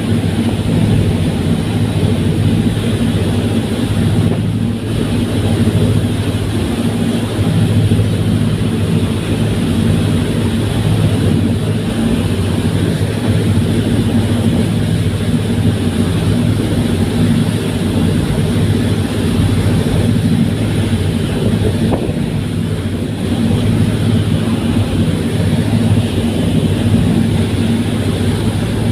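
Fast passenger ferry's engines running at steady cruising speed, a constant low drone with a hiss of water and wind, heard aboard while underway.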